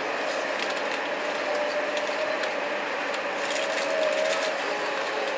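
Running noise inside a moving JR E751 series electric train car: a steady hiss and rattle with a faint whine that wavers slightly in pitch, and scattered light ticks and clicks from the car.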